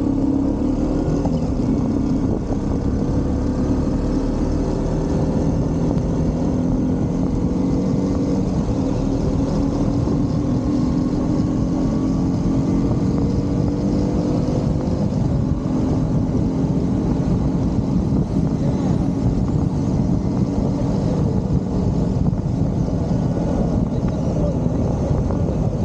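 Motorcycle engine pulling along at road speed, its note rising slowly over the first half and then sinking into heavy wind rumble on the microphone.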